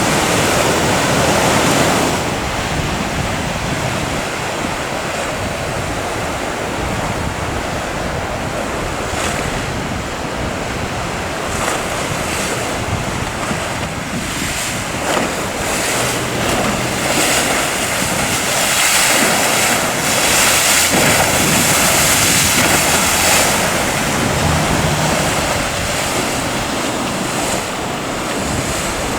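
Breaking ocean waves rushing steadily, with wind buffeting the microphone; the surf grows louder and hissier for several seconds past the middle.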